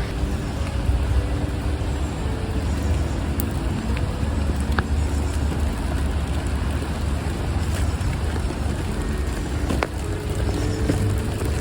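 Rain falling in a wooded park, with scattered single drops ticking close by, under a steady low rumble.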